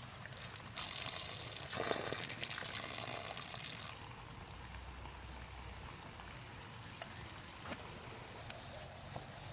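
Water pouring, strongest from about one to four seconds in, then running on more faintly.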